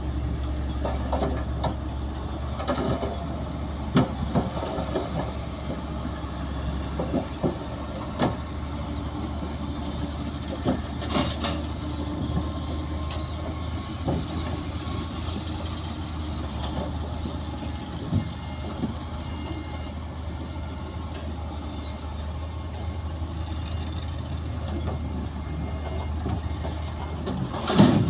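Heavy diesel earthmoving machinery running steadily at a low, even hum, with scattered metallic knocks and clanks, the loudest just before the end.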